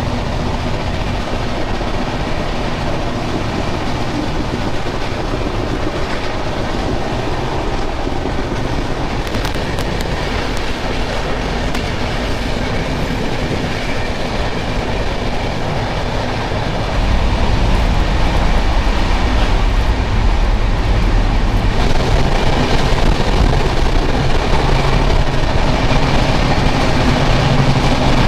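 Express train running at high speed: a steady loud rumble and rush of wheels on the rails, heard from the coach doorway. The low rumble gets louder about two-thirds of the way through.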